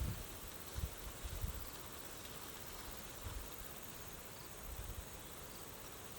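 Faint outdoor ambience: a steady hiss with insects chirring, and a few soft low thumps, most of them in the first half.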